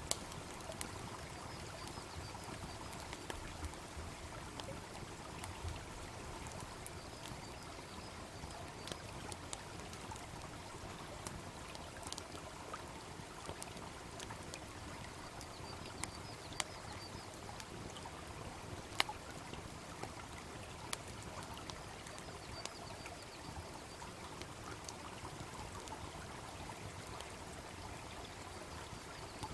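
A wood bonfire crackling, with scattered sharp pops, the loudest about two-thirds of the way through, over the steady rush of a babbling brook.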